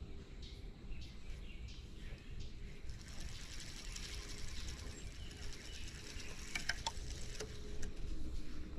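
Outdoor creekside ambience: a low rumble of wind on the microphone and a steady hiss that grows louder about three seconds in, with faint bird chirps and a few light clicks near the end.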